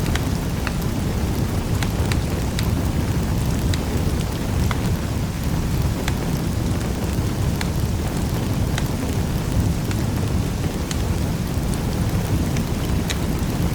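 Fire burning in a fireplace: a steady low rumble of the flames with sharp crackles and pops scattered irregularly through it, about two a second.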